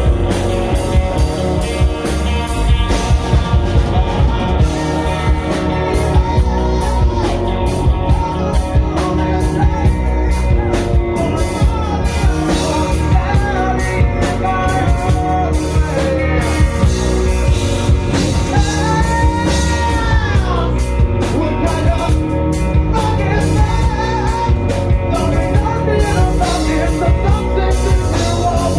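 Rock band playing with drum kit and guitar, a singer's voice coming in over it about six seconds in.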